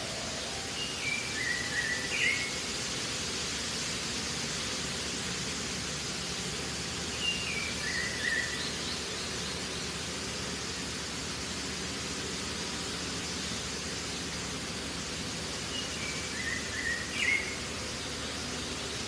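A bird repeats the same short call three times, several seconds apart: a few notes stepping down in pitch and ending in a quick upward flick. Under it runs a steady hiss of outdoor noise.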